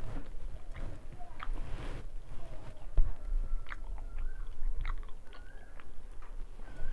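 Close-up mouth sounds of a person chewing rice and hilsa fish curry, with wet smacking and small clicks. One sharper click comes about three seconds in.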